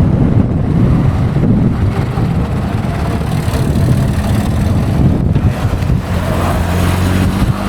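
Car engine running loudly with a rough rumble that settles into a steady low engine note about halfway through.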